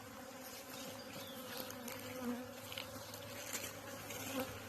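Honey bees buzzing around their hive: a steady hum of many wings, with single bees passing close now and then.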